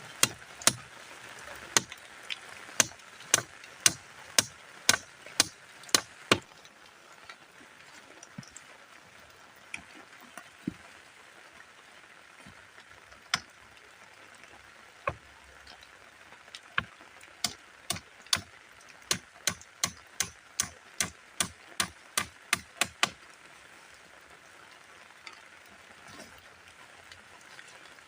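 Repeated sharp strikes on wood, about two a second for the first six seconds, then a few scattered blows and a quicker run of strikes about two thirds of the way in.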